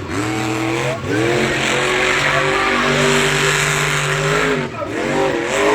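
Monster truck engine revving hard: it climbs at the start, holds high for several seconds, drops off briefly about four and a half seconds in, then revs up again.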